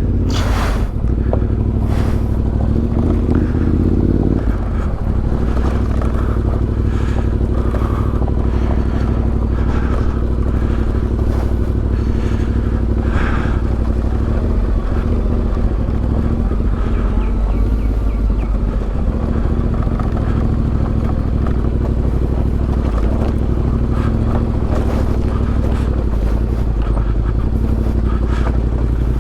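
Yamaha Ténéré 700 parallel-twin motorcycle engine running at low, steady revs on a rough trail, the note shifting slightly about four seconds in, with scattered knocks and rattles.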